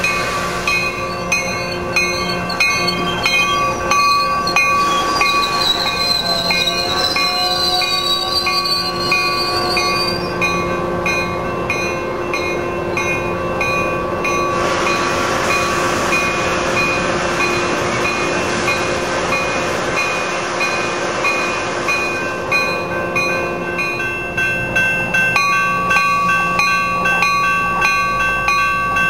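Coaster commuter train of bi-level coaches, cab car leading, running along the station track, with a high wavering wheel squeal from about 5 to 10 seconds and a strong rushing hiss from about 15 to 22 seconds. A bell rings steadily at about three strokes a second throughout, typical of grade-crossing signals.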